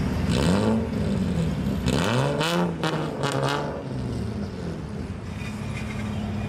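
Car engine revved in several quick blips over its idle, the pitch climbing and falling about three times in the first four seconds with some crackle, then settling back to a steady idle.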